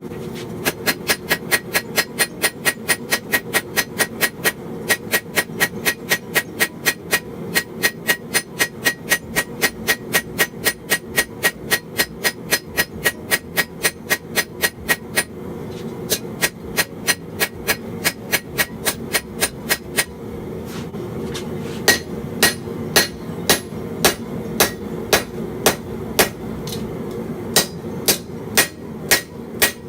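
Blacksmith's hammer striking hot steel on an anvil while forging a knife blade: a quick, steady run of ringing blows, about three or four a second, that lightens about halfway through and then gives way to slower, heavier blows about one and a half a second apart. A steady low hum runs underneath.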